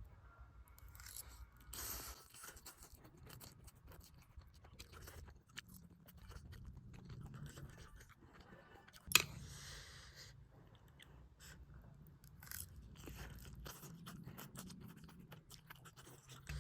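Close-miked chewing of a mouthful of spicy noodles with sausage and egg, a run of soft wet mouth clicks and crunches. One sharp click stands out about halfway through.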